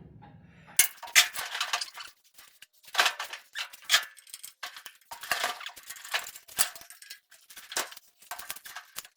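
Metal squeaking and chain clinking in short irregular bursts as a 4.6L engine hanging from a hoist is nudged down into a truck's engine bay.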